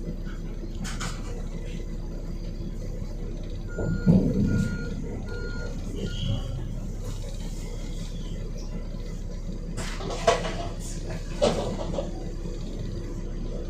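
Volvo B7RLE bus's six-cylinder diesel engine idling steadily just after a hard start. About four seconds in there is a thud, followed by three short beeps, and later two sharp knocks.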